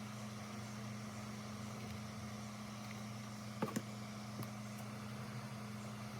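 Steady low mechanical hum over a soft hiss, with two light clicks a little past halfway.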